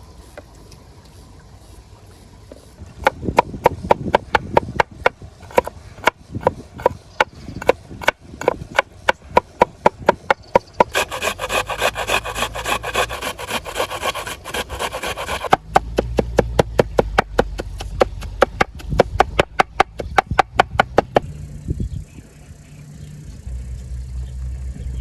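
A knife working on a wooden cutting board: a long run of sharp, regular chopping strokes, about three a second. There is a stretch of quicker, scraping strokes in the middle, and the chopping speeds up again after it.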